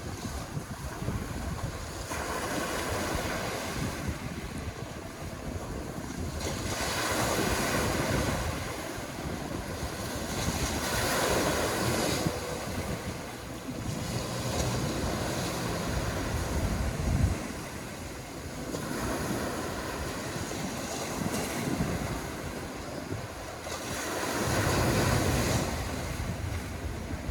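Small sea waves washing onto the shore, swelling and receding every few seconds, with wind buffeting the microphone.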